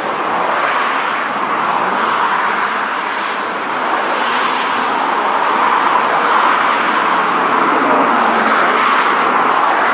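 First-generation Nissan Silvia (CSP311) driving a gymkhana course: a steady mix of engine and tyre noise, getting a little louder about four seconds in.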